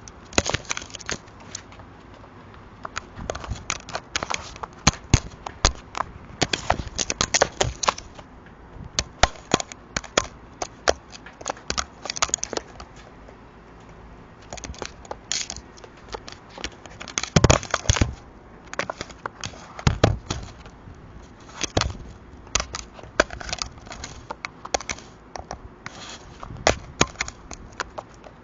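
A crow pecking and scraping at an Arlo security camera's plastic housing, close to the camera's own microphone: irregular clusters of sharp taps, clicks and scratches with short pauses between them.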